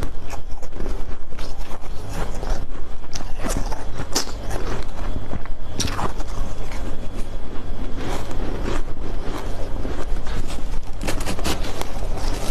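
Close-miked chewing of refrozen powdery ice: a rapid, irregular run of soft crunches.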